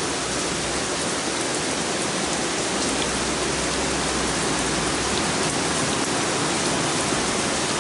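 Heavy rain pouring down steadily, the drops pattering on a wet wooden deck.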